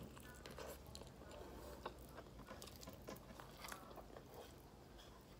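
Faint mouth sounds of a person eating cooked chicken with her hands: soft chewing with small scattered clicks from biting the meat.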